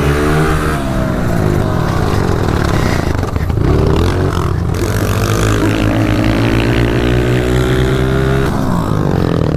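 Honda CRF125 pit bike's single-cylinder four-stroke engine revving hard as it is ridden around the track, its pitch climbing and dropping with the throttle and falling off sharply near the end.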